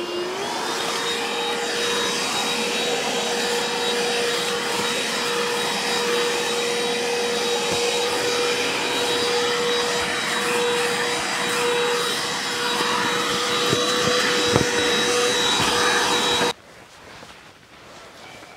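An electric motor-driven fan or blower spins up with a rising whine, then runs steadily with a strong rush of air and a constant whine. It stops abruptly about sixteen and a half seconds in.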